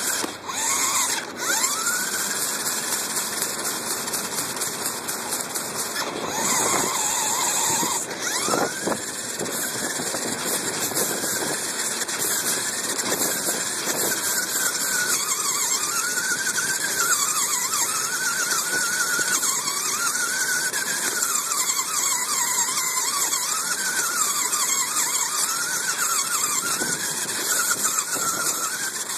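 Toy RC car's electric motor and gears whining as it is driven, the pitch rising and falling again and again with the throttle, over a steady hiss of running noise and a few knocks in the first few seconds.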